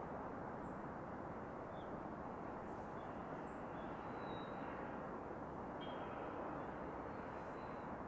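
A few short, faint bird chirps scattered over a steady background rush of noise.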